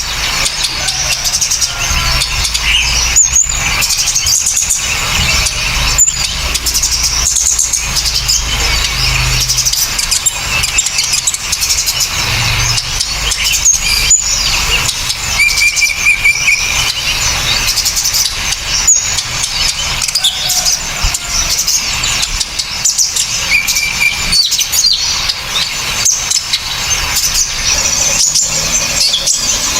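Recorded songbird calls for masteran: a dense, unbroken stream of sharp, harsh, rapid chirps and short high trills, several species layered together. A low hum runs underneath for roughly the first third.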